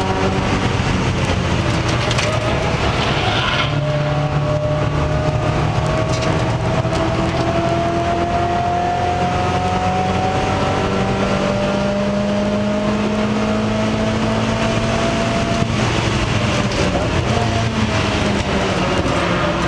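Mazda Miata race car's four-cylinder engine at full throttle from inside the stripped, caged cabin, with road and wind noise. The pitch drops suddenly about three and a half seconds in, then climbs slowly for about twelve seconds, a long pull in one gear, and breaks off about sixteen seconds in, falling towards the end as the driver lifts for the next corner.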